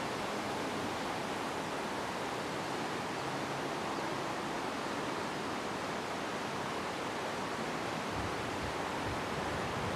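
Steady wind blowing, an even rushing noise, with some low buffeting near the end.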